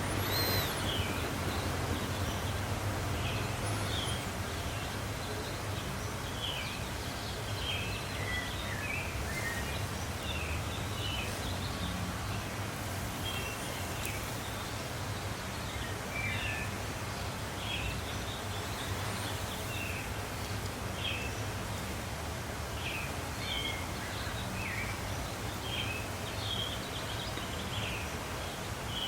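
Small birds chirping in short, high calls scattered throughout, over a steady low hum and background noise.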